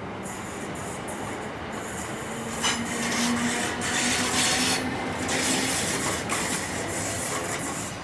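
Train moving through the station: a steady rumble and hiss, with a scraping rub of wheels on rail that grows loudest in the middle. A low hum comes in about two seconds in and fades out near six seconds.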